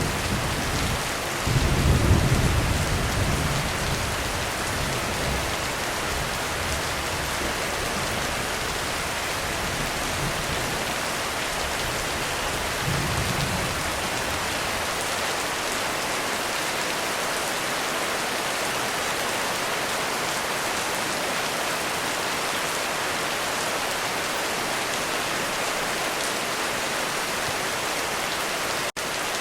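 Heavy rain falling steadily, with a low rumble of thunder about two seconds in and a fainter rumble about halfway through. The sound cuts out for an instant near the end.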